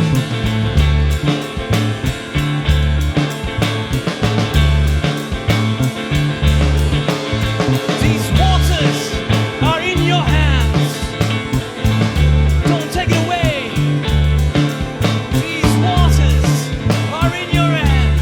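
Psychedelic rock instrumental passage: a repeating bass line and busy drums, with a lead line of bending, sliding notes coming in about halfway through and again near the end.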